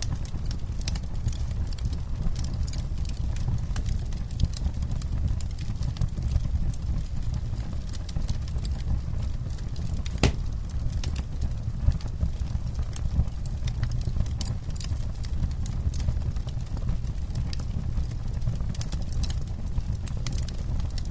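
Campfire burning with dense, irregular crackles and snaps over a steady low rumble. One louder pop comes about halfway through.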